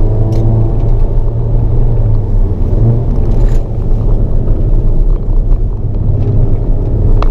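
Hyundai Avante N (Elantra N) 2.0-litre turbocharged four-cylinder engine driven hard at track pace, heard inside the cabin as a loud, steady drone with road rumble under it and a few short clicks.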